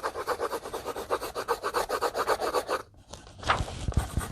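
Coloured pencil scribbling back and forth on paper, shading in a drawing with rapid, even strokes, about seven a second. It stops a little under three seconds in, then a few separate strokes and light knocks on the clipboard follow near the end.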